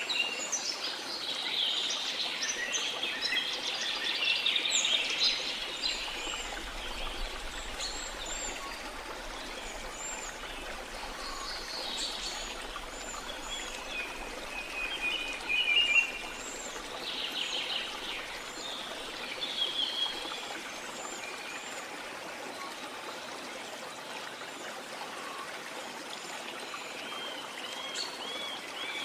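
Steady rush of falling water from a waterfall, with several birds chirping and calling over it. The calls are busiest in the first few seconds, with a short trill around the middle and a run of quick repeated chirps near the end.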